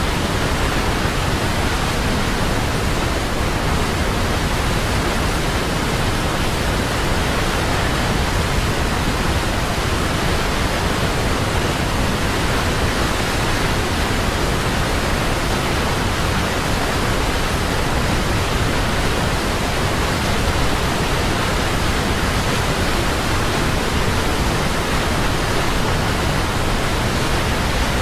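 Large waterfall crashing down in a steady, unbroken roar of water, loud and even throughout.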